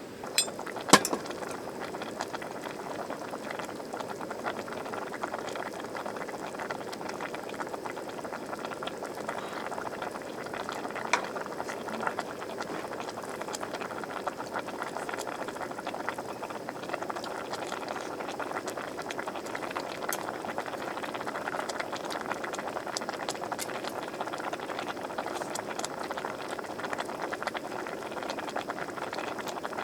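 A pot of liquid bubbling at a steady boil, with a few sharp clinks near the start and one about eleven seconds in.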